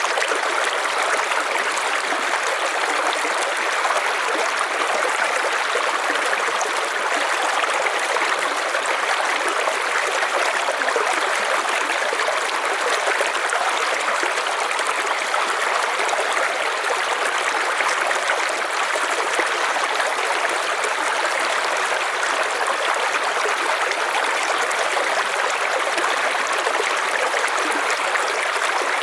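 River water flowing over stones: a steady, even rushing and burbling with no change through the whole stretch.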